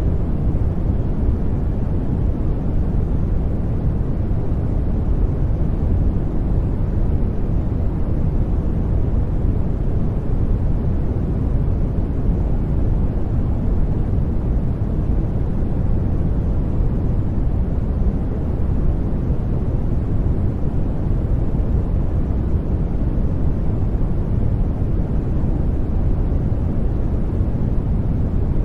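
Steady sleep-aid noise (soft 'white noise'), a deep, even rush with most of its weight in the low end and little hiss, unchanging throughout.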